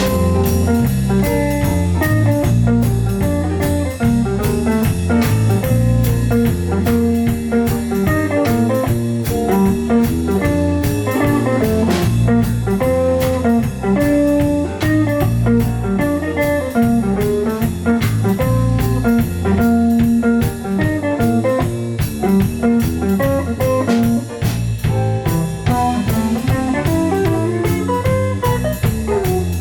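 Instrumental band music in a bluesy jazz style: a plucked guitar line over bass and drum kit, with a steady beat.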